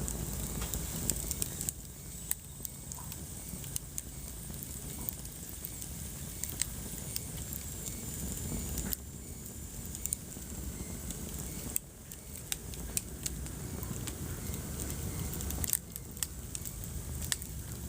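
Wood fire burning in a fireplace: a steady low rumble of flames with frequent sharp crackles and pops, and a faint high whistle in the middle.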